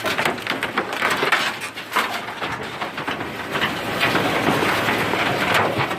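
Garbage truck's rear compactor crushing a load of rubbish, with a dense run of cracking and snapping throughout.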